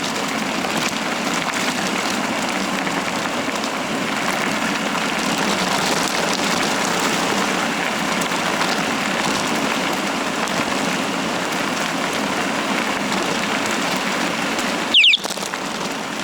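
Bicycle rolling downhill on a forest trail: a steady hiss of tyres and rushing air. About fifteen seconds in comes one brief, louder high squeak.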